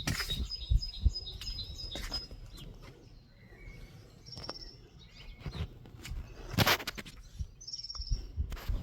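Small birds chirping in short rapid runs of high notes, three times, with scattered light knocks and one brief, louder noisy rasp a little after the middle.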